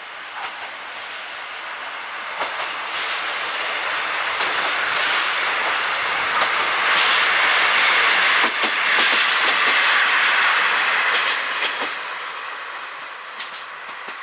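A train passing by on jointed track: a rushing rumble that grows louder, is loudest a little past the middle, then fades. Clacks of the wheels over rail joints run through it.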